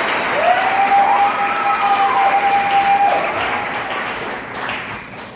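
Theatre audience applauding, with a long high note held over the clapping for about three seconds; the applause dies down near the end.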